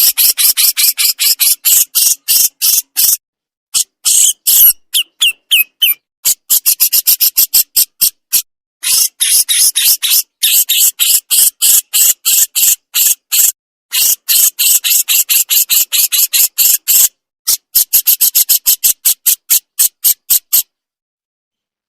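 A burung jenggot giving rapid harsh scolding calls ('besetan'): a fast train of short raspy notes, about five a second, in runs separated by brief pauses. The calls stop abruptly near the end.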